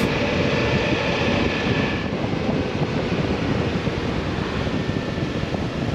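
Wind rushing over the microphone at riding speed on a Suzuki V-Strom V-twin motorcycle, with the bike running and road noise underneath; a faint steady high whine fades out about two seconds in.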